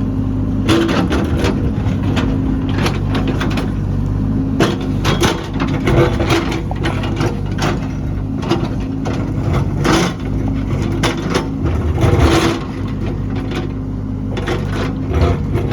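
A heavy construction machine's diesel engine running steadily under load, with repeated sharp clanks and crunching, as of a steel bucket or blade working rock and soil.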